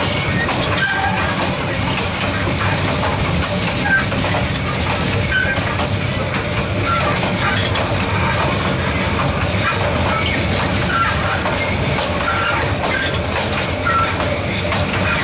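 Train running on the rails, heard from the open gap between two carriages: a steady loud rumble and rattle of wheels and couplings, with short high squeaks every second or so.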